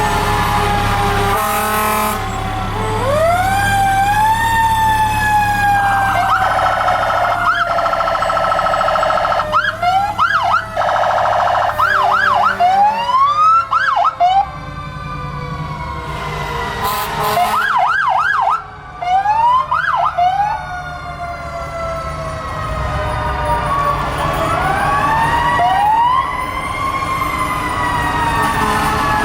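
Several fire truck sirens sounding together, wailing up and down, with fast yelping sweeps in the middle, over a low truck rumble. Air horn blasts come twice, a little under halfway through.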